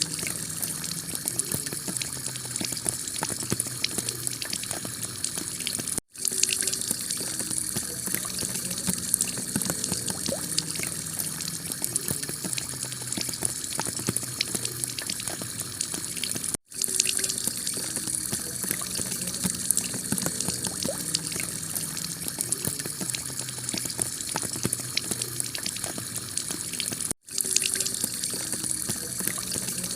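Heavy rain falling on a clay tile roof: a steady, dense rush of water peppered with countless small drop hits. The sound cuts out for an instant three times, about every ten seconds.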